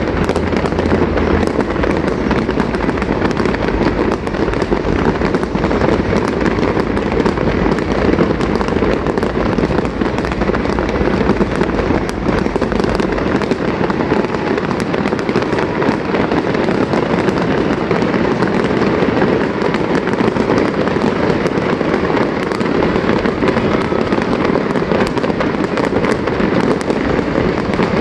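Fireworks display going off in a dense, unbroken barrage of rapid pops and bangs.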